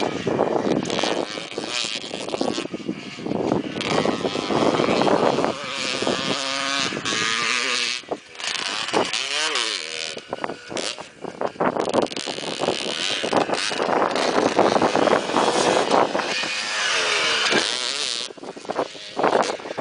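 Motocross bike engines revving hard on a dirt track, the pitch repeatedly rising and dropping as the throttle opens and shuts and through gear changes.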